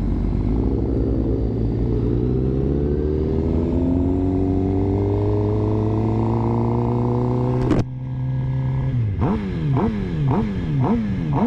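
Suzuki GSX-R sport bike's inline-four engine pulling with revs climbing steadily for about eight seconds. The revs then drop sharply with a click, followed by a string of quick throttle blips, about two a second, each rev rising and falling.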